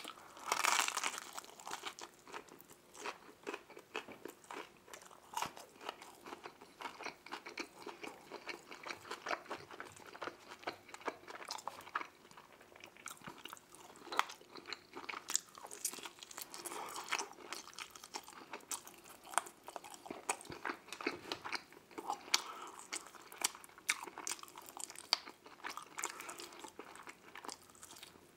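Close-miked eating: biting into and chewing deep dish pizza dipped in garlic sauce, then chewing buffalo wing meat off the bone. There are many small irregular mouth and food clicks throughout, and a louder bite about a second in.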